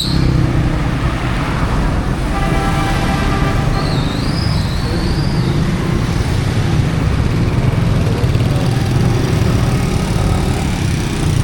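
Street traffic with vehicle engines running close by, a steady low rumble. A short pitched sound rises out of it about two seconds in, and a high, wavering chirp comes a little later.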